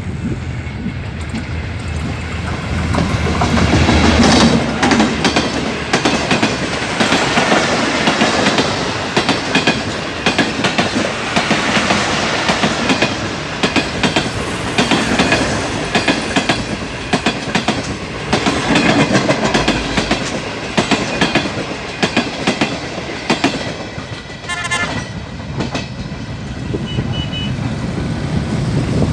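Passenger express train of Pakistan Railways, the 15UP Karachi Express, running past close by at speed. Its coaches' wheels clatter over the rail joints in a rapid run of clicks over a loud rush of noise, which swells about four seconds in.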